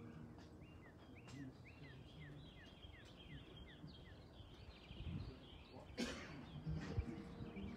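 A small bird singing faintly outdoors: a rapid run of short, falling chirps, about three a second, lasting about three seconds. About six seconds in there is a brief burst of noise.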